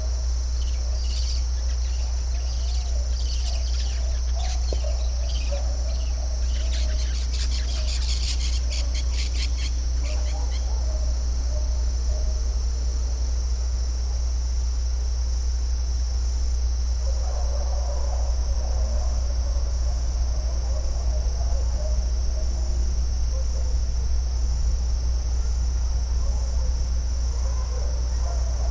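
Outdoor nature soundscape: a steady high-pitched insect chorus, like crickets, with birds chirping and one fast trill in the first third. Lower chirping calls come in about two-thirds of the way through. A steady low rumble runs underneath.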